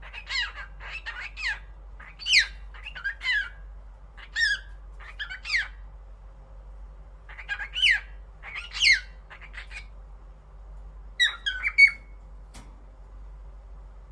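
Cockatiel calling: strings of short chirps and squawks with quick falling whistled notes, coming in bursts over the first six seconds, again around eight to nine seconds and around eleven seconds. A single sharp click follows near the end.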